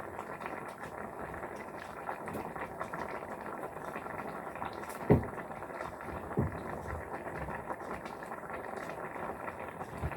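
A pot of eggplant soup bubbling on the stove, a steady crackling bubble. Two short knocks about five and six and a half seconds in, the first louder.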